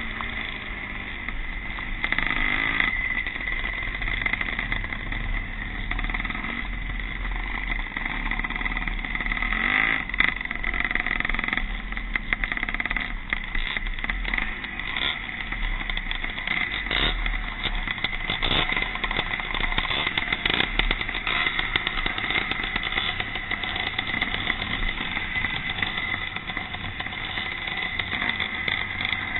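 Vintage pre-1965 motocross motorcycles racing round the track, engines revving up and down as the bikes go by.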